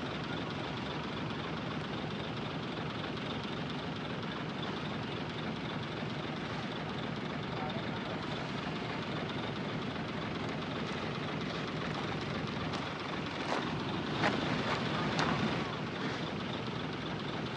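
Heavy earthmoving machinery running steadily, with a short run of sharp metallic knocks and clanks about three quarters of the way through.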